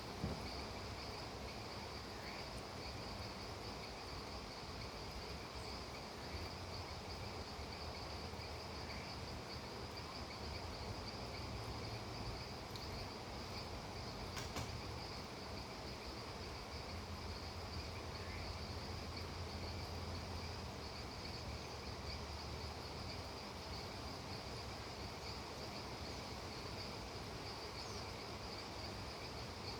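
Steady rain hiss with a continuous chorus of crickets and other insects trilling high over it. A single faint click comes about halfway through.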